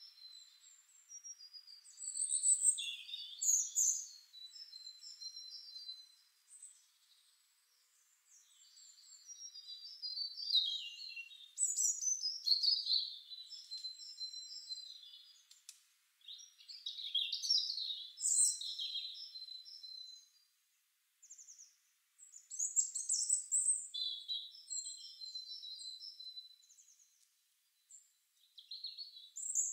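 Birdsong: small birds chirping and trilling in quick, high phrases, coming in bouts with short gaps between them.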